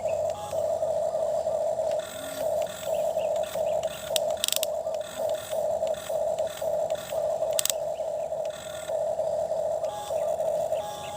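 Small electric motor and plastic gears of a toy excavator whirring, pulsing on and off in quick bursts with some clicking and rattling.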